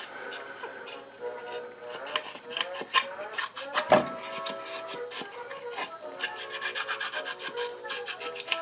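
Scrubbing and scraping inside a wooden coffee grinder's drawer to loosen old coffee grime softened by an ammonia cleaning mixture: quick, irregular rasping strokes on wood.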